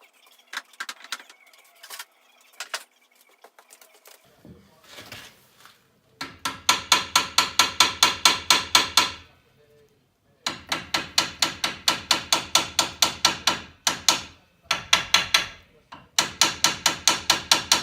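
Hammer blows on the brake pad retaining pins of a Volkswagen T4 front brake caliper, trying to knock the pins through. Light clicks and handling at first, then from about six seconds in four runs of rapid ringing metal strikes, about five or six a second, with short pauses between runs.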